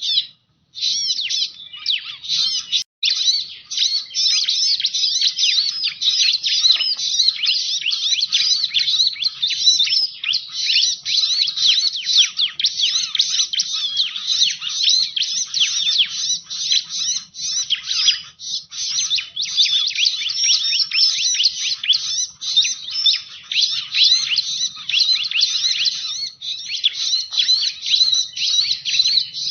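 Bar-winged prinia (ciblek) song played as a lure call: a dense, rapid stream of high chirps and trills that runs on without a pause, apart from two short breaks near the start.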